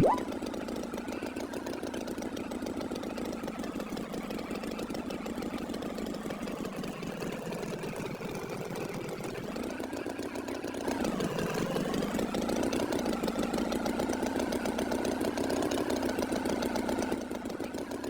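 An engine running steadily, with a wavering pitch, getting a little louder about eleven seconds in.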